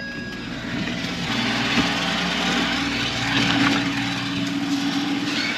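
Engine running steadily, with a steady hum coming in about halfway through. It is most likely the engine of the crew's construction machine, which has been sitting unused.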